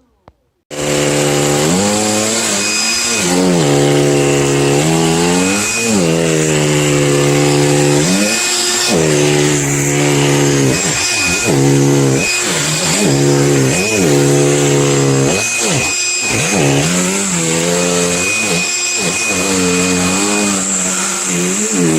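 Cordless handheld vacuum switched on under a second in and running loud, its motor whine dipping in pitch and recovering again and again, the dips coming faster toward the end.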